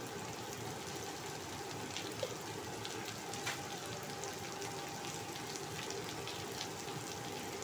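Stir-fry of tempe and green chilies sizzling steadily in a wok over the heat, with scattered small crackles.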